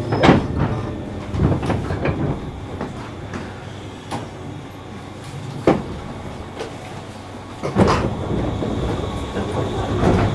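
Inside a 201-series electric train coming to a halt at a station: the running sound dies away at the start. Scattered clunks and knocks from the car and its doors follow, the loudest just after the start and about eight seconds in.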